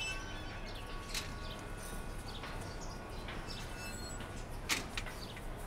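Outdoor ambience of small birds chirping in short, scattered calls over a steady low hum, with one sharp click near the end.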